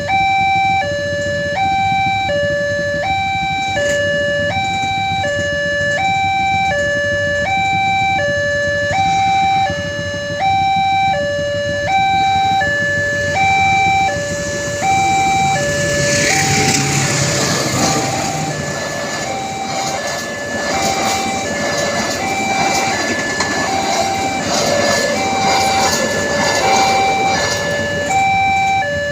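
Railway level-crossing warning alarm sounding a steady electronic two-tone signal, high and low notes alternating about once a second. From about halfway through, a passing train's rumble and wheel clatter joins it.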